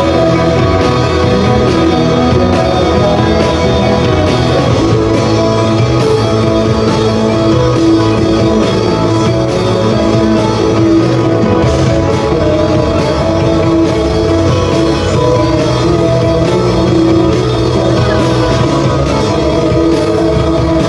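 Rock band playing live and loud, with electric guitar prominent.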